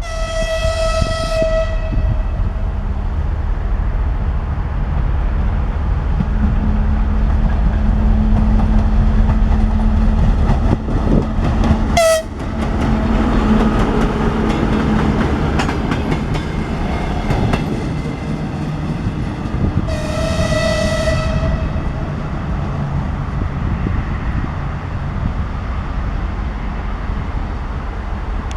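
Diesel train running past with a low engine drone and rumbling wheels on the rails. Its horn gives a single-tone blast of about a second and a half at the start and again about 20 seconds in, with a brief sharp chirp about midway.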